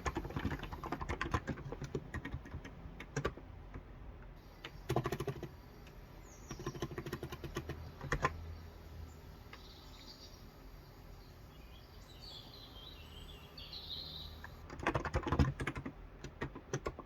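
Typing on a Cox Endeavor electrostatic capacitive (Topre-style) tenkeyless keyboard with 35 g keys, in short bursts with pauses, the longest burst near the end. Birds chirp faintly in the pauses, mostly in the middle.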